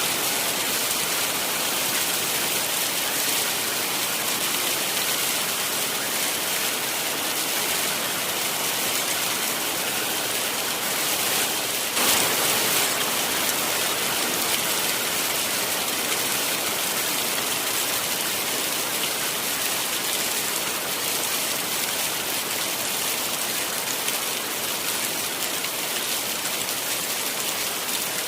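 Heavy rain falling steadily, an even hiss of drops, with a brief louder surge about halfway through.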